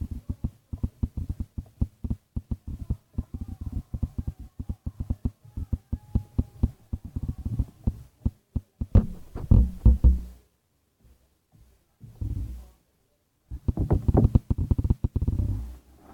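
Slime being squeezed and kneaded by hand: a dense run of small wet pops and clicks, then a few louder squelching bursts in the second half.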